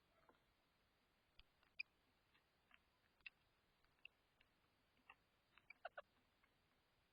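Faint, irregular sharp clicks and taps of birds feeding at a seed tray, about a dozen in all, with a quick cluster about five to six seconds in.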